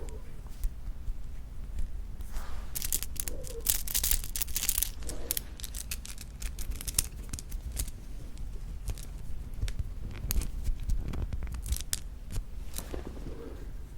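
Close-miked crinkling and tearing of packaging, with scattered sharp clicks and a dense run of crackling a few seconds in.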